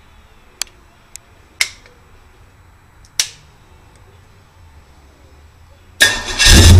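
A few sharp clicks and knocks, then about six seconds in a 327 Chevrolet small-block V8 on an engine test stand fires up suddenly and runs loud.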